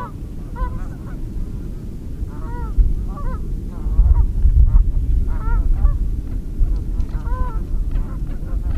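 A flock of birds calling: many short, pitched calls, repeated and overlapping, over a steady low rumble that grows louder about four seconds in.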